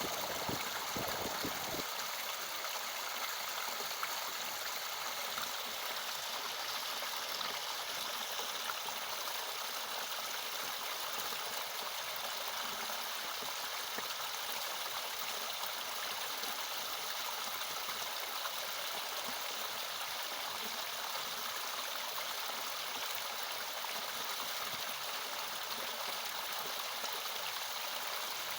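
Small natural waterfall splashing and rushing steadily, a continuous hiss of falling water with little low rumble.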